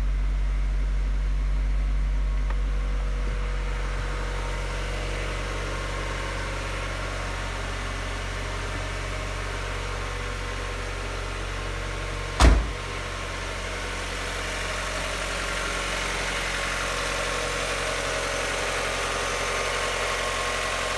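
2002 Mazda Miata NB's 1.8-litre four-cylinder engine idling steadily just after a cold start. A single loud thump comes about twelve seconds in.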